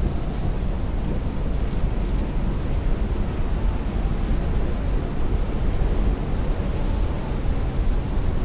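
Heavy rain beating on a window with strong wind, a steady, deep, even rush of noise with no separate hits.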